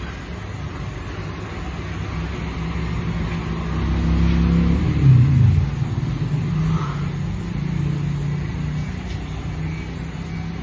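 A motor vehicle's engine running in traffic. It grows louder toward the middle, its pitch dropping as it passes close by, then settles into a steadier engine hum.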